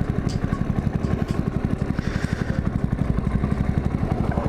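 Motorcycle engine idling, a steady, even beat of about ten pulses a second.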